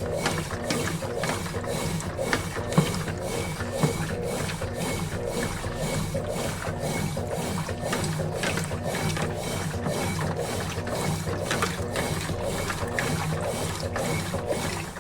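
Consul Facilite 11 kg top-loading washing machine in its wash cycle, agitating the load with a regular mechanical click about two or three times a second. The motion stops right at the end.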